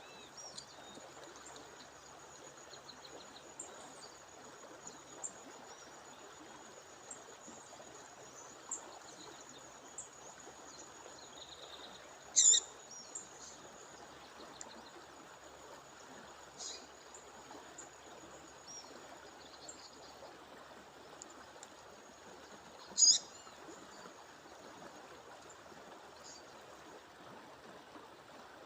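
A female songbird giving short, sharp call notes, loudest twice (about 12 seconds in and again about 23 seconds in), with softer chips in between. Under them runs the steady rush of waterfall water and a thin, steady high whine.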